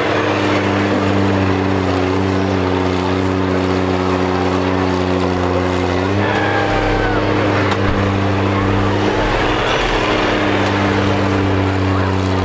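Diesel engines of combine harvesters running in a steady loud drone, with a small shift in pitch about halfway through and a single brief knock a little later.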